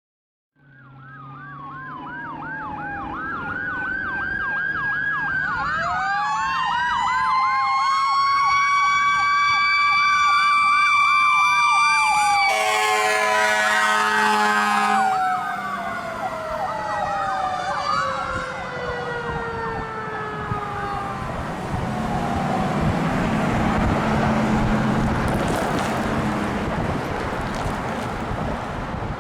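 Fire engine on an emergency run: an electronic siren on a rapid yelp, joined by a Federal Q2B mechanical siren winding up to a high, steady wail. A horn blast of about two and a half seconds comes near the middle, then the Q winds down in a long falling tone. The sirens fade into engine and road noise near the end.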